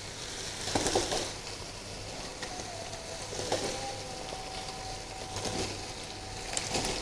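Keema (minced meat) sizzling quietly in a non-stick wok as chopped raw potatoes are tipped in, with a brief patter about a second in and a few soft knocks later.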